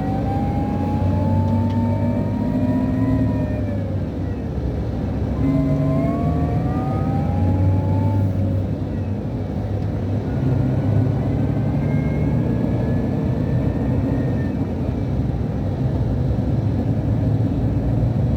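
Scania DC13 inline six-cylinder diesel of a rear-engined coach pulling under load, heard from inside the cabin: a deep engine drone with a whistle and whine that climb in pitch three times, dropping back about four and nine seconds in, as the Opticruise gearbox shifts up.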